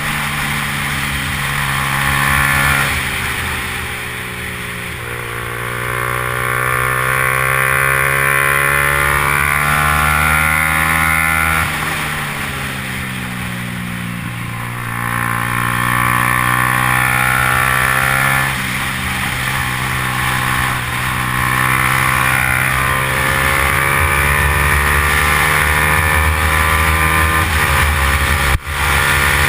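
Yamaha R15's single-cylinder engine running hard at race pace, its pitch climbing through long rising sweeps and dropping back as the throttle and gears change, over a steady low drone. A brief dropout comes near the end.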